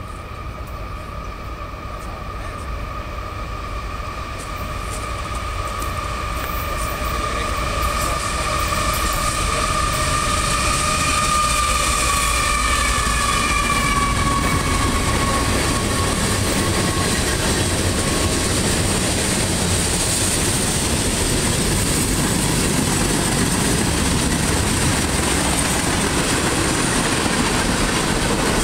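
A freight train's cars rolling past: covered hoppers and tank cars. The rumble and rail noise grow louder over the first ten seconds and then hold steady. A high, steady squealing tone runs through the first half, dips slightly in pitch and fades out a little past halfway.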